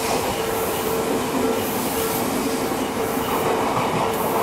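Odakyu stainless-steel commuter train running past the platform, its wheels clattering over the rail joints. A steady tone sounds throughout, broken at short regular intervals.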